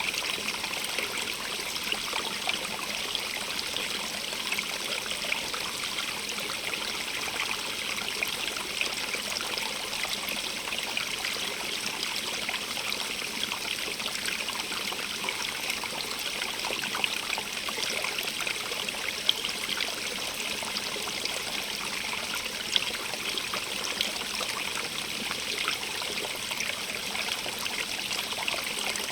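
Running water, a steady splashing rush with fine crackle, brightest in the upper range, with a couple of slightly louder splashes partway through.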